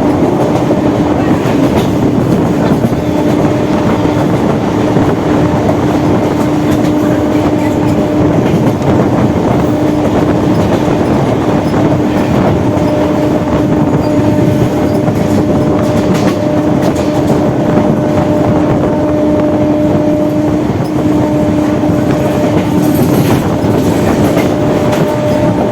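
Electric suburban local train running at speed, heard on board: wheels clattering on the rails under a loud, steady rumble, with a steady droning tone throughout.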